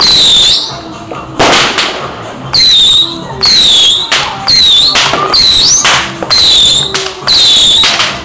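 New Year's fireworks going off in loud bursts roughly once a second. Each burst carries a high whistle that dips and then rises.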